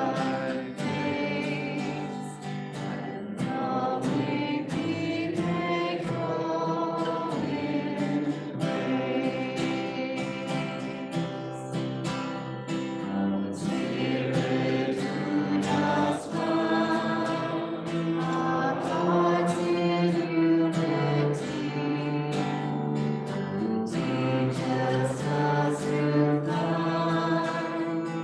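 Congregation or choir singing a hymn, several voices together in sustained pitched lines.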